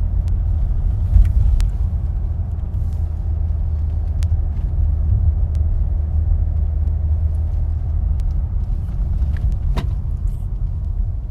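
Car driving along a road, heard from inside the cabin: a steady low rumble of engine and tyre noise, with a few faint ticks.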